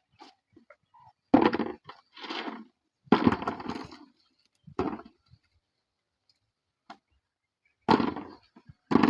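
A series of loud, sharp knocks or cracks at irregular intervals, each with a short rattling tail: about four strong strikes with a quieter one between them.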